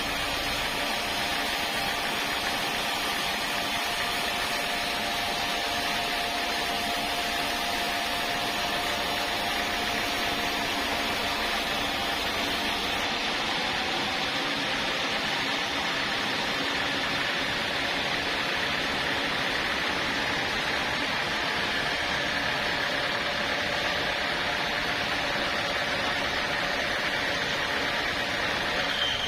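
Sawmill saw and its drive motor running steadily: a constant mechanical hum with a hiss over it, unchanging in level.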